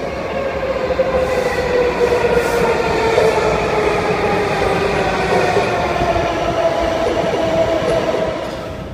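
Metro train running, with a whining tone over the running noise that dips in pitch and then rises again, easing off near the end.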